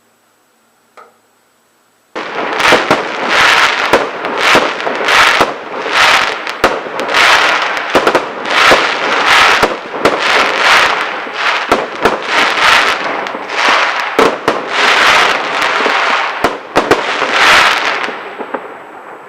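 Fireworks going off: after a short near-silence, a loud, dense run of rapid crackling and popping starts suddenly about two seconds in and fades near the end.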